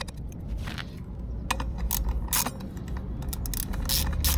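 Metal hand tools clicking and clinking on the rear sprocket bolts of a motorcycle wheel, with a socket ratchet clicking in quick short runs toward the end.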